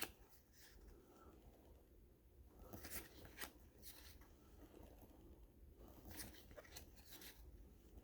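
Faint rustling and soft clicks of baseball cards being handled and flipped through, a few at a time, about three seconds in and again near the end.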